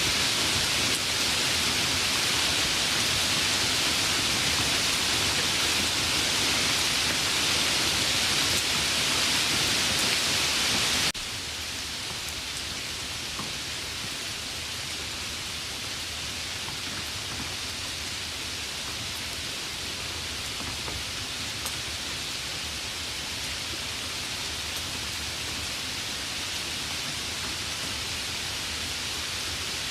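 Steady rain hissing, with no single drops standing out. About eleven seconds in it cuts abruptly to a quieter, softer rain with a few faint drips.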